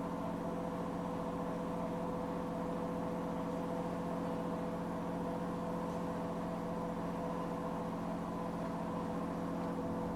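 Steady hum of a 103 series 1500 electric train's equipment heard from inside the car, made of several unchanging tones over a soft noise. There are no rail-joint clicks and no change in pitch, as of a train standing still.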